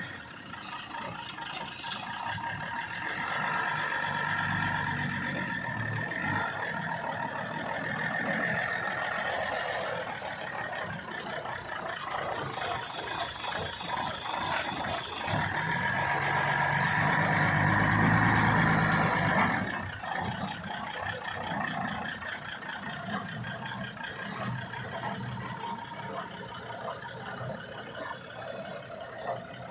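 Heavy truck's diesel engine running as the truck is driven, with a few seconds of hiss about 13 seconds in. The engine builds to its loudest near 18 seconds, then drops off suddenly just before 20 seconds and runs on more quietly.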